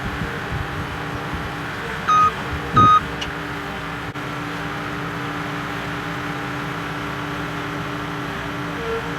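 An engine running steadily, with two short, loud electronic beeps about two seconds in.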